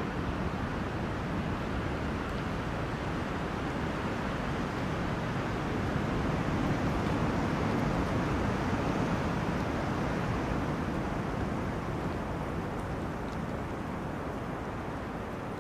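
Wind blowing through forest trees: a steady rushing that swells about halfway through and eases toward the end.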